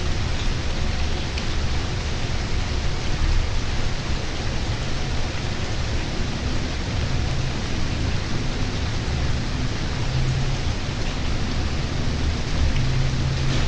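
Steady rain falling, a dense even hiss, with a low rumble underneath.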